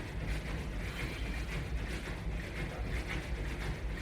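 A person jogging in place against a resistance band anchored to a wall-mounted bar: a soft rhythmic swish-and-step noise repeating a little more than once a second over a steady low rumble.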